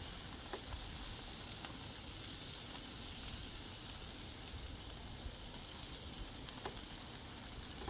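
Chicken strips and sliced bell peppers and onions sizzling steadily on a hot Blackstone flat-top griddle, with a few light clicks of a metal spatula.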